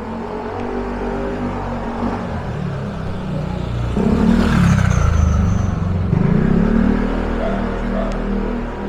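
A motor vehicle's engine passing close. It is loudest from about four to six seconds in, and its pitch dips and then rises again as it accelerates away.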